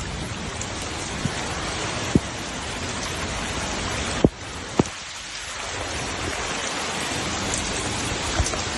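Heavy rain pouring down: a steady, dense hiss of falling water, with a few brief sharp clicks.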